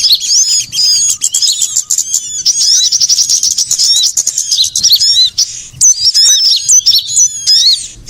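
Bird-lure recording of many small songbirds calling at once: a dense stream of high, rapid chirps and twitters, many overlapping without pause. It is a lure call, played to draw small birds such as sunbirds in.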